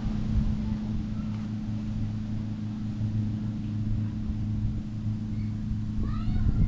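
A motorboat engine running with a steady low drone. Near the end a few short, curved chirping calls sound over it.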